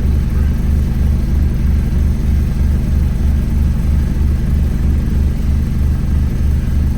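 Wright Gemini 2 hybrid double-decker bus running steadily: a loud low engine drone that pulses about three times a second.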